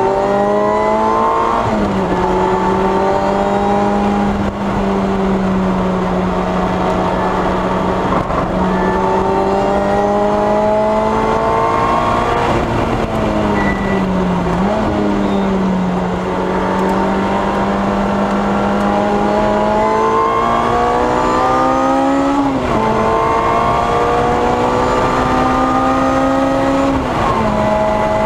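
Lotus Exige S's tuned, supercharged engine under hard acceleration on track, heard from inside the cabin: the engine rises in pitch through each gear and drops at each of several upshifts, with a quick blip near the middle.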